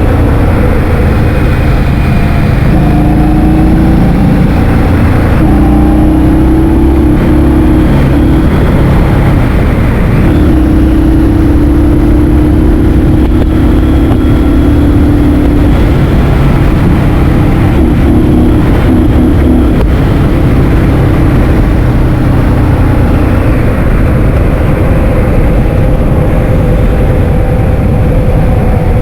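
Heavy wind buffeting the microphone while riding a scooter, with a vehicle's motor humming underneath and stepping up and down in pitch as the speed changes.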